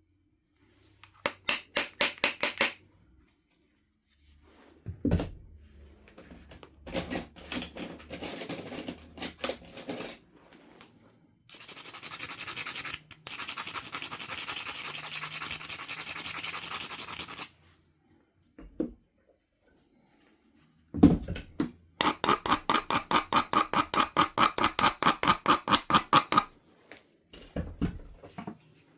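A Knife River flint biface's edge being abraded with an abrading stone: bouts of quick back-and-forth rubbing strokes, several a second, with a long steady grinding stretch in the middle. Two single sharp knocks fall about 5 seconds in and about 21 seconds in.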